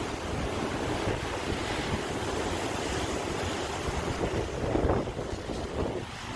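Ocean waves washing ashore, a steady rush with wind buffeting the microphone; one wave swells to its loudest about five seconds in, then falls away.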